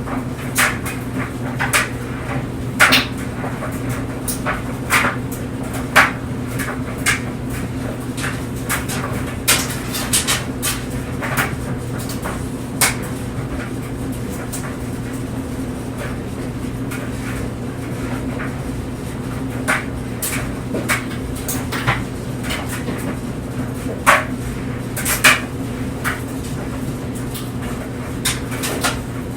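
Clothes dryer running: a steady motor and drum hum, with irregular knocks and clicks as the load tumbles and things in it strike the drum.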